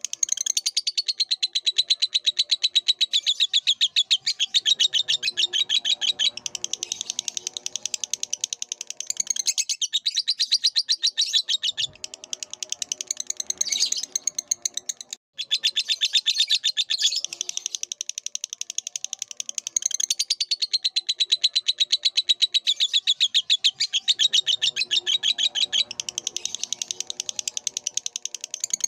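Lovebird singing: a long, fast, unbroken chatter of high chirps. It breaks off for an instant about halfway.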